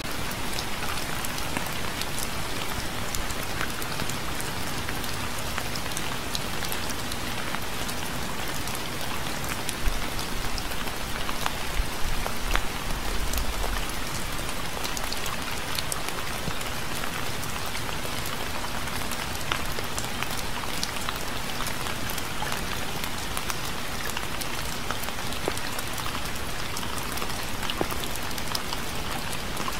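Steady rain falling on a surface, an even hiss with many individual drops ticking through it. A few soft low thumps come about ten to thirteen seconds in.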